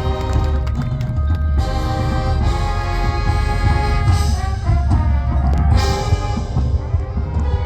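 High school marching band playing its field show: brass holding chords over drum and percussion hits.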